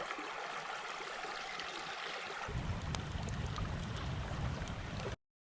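Creek water running steadily. A low rumble joins about halfway through, and the sound cuts off abruptly shortly before the end.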